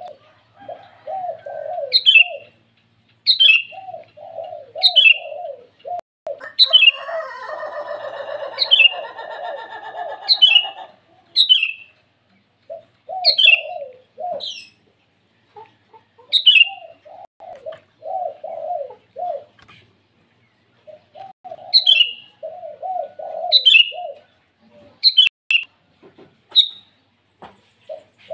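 Sooty-headed bulbul (kutilang) calling, with sharp, short, high falling notes about once a second. Between them come runs of quick, repeated lower notes, and a rustling or flapping-like noise from about six to ten seconds in.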